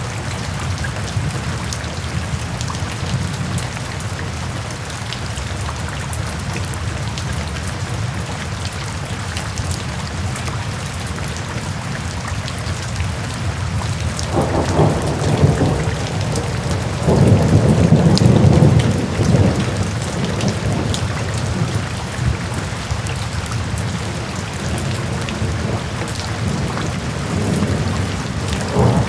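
Steady rain falling, with thunder rumbling twice about halfway through; the second roll is the louder and lasts a few seconds.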